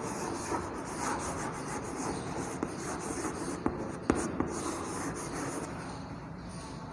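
Handwriting: steady scratching and rubbing strokes of a writing tool on a surface, with a few light taps, the sharpest about four seconds in.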